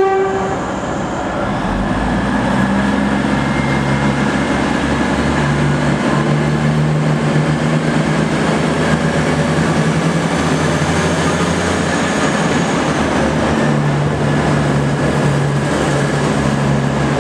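Two coupled V/Line VLocity diesel railcar sets pulling out, their diesel engines running steadily under power with a low drone that builds a couple of seconds in and holds.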